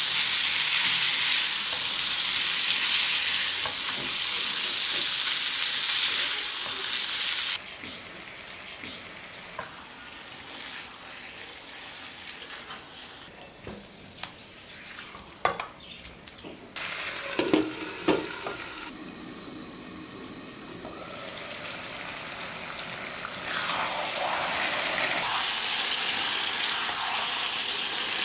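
Chicken pieces in masala sizzling in hot oil in a kadai, stirred with a wooden spatula. The sizzle is loud at first and drops off suddenly after about seven seconds. A few sharp clacks of the spatula come in the quieter middle, and the sizzle then builds up again toward the end.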